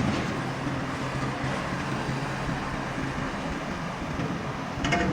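A steady low mechanical hum, with a short sharper noise just before the end.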